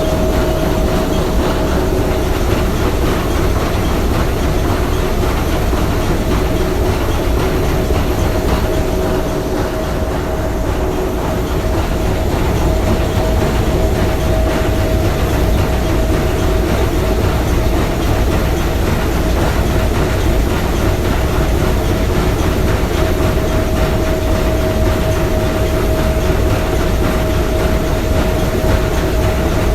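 Three-cylinder triple-expansion marine steam engine running steadily: a dense, fast mechanical clatter over a low rumble, with a steady tone held throughout.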